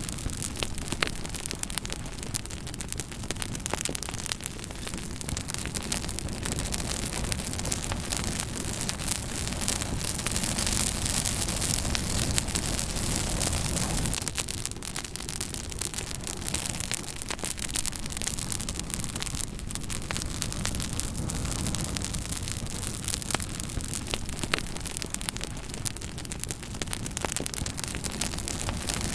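Fire crackling steadily: a constant hiss with many small sharp pops and snaps scattered throughout.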